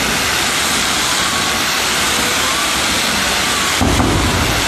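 Fireworks going off in a dense, unbroken crackle, with a deeper boom joining about four seconds in.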